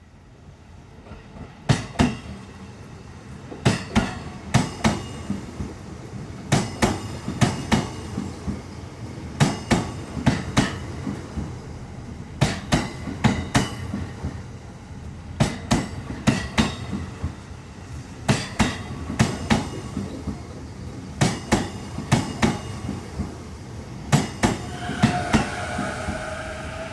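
E233-series electric train rolling past, its wheels clacking over rail joints in regular groups of clicks, one group for each bogie, and growing louder as it comes in. Near the end a high, steady whining tone joins the clacking.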